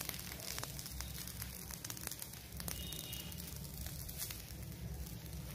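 Dosa batter sizzling and crackling on a hot non-stick pan: many small crackles over a soft hiss, with a steady low hum underneath.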